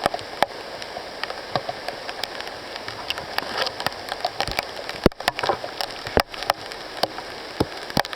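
Steady rush of a mountain stream below, with scattered sharp ticks and taps throughout and a few louder knocks about five to six seconds in.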